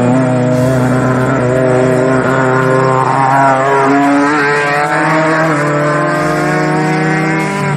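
Engines of off-road race vehicles running at steady revs, with the pitch shifting in steps and a vehicle going by about midway. The sound cuts off abruptly at the very end.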